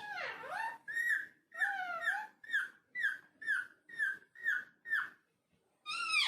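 Ringneck parakeet calling: a drawn-out call that dips and rises in pitch, then a run of short repeated calls about two a second, a pause of about a second, and another call near the end.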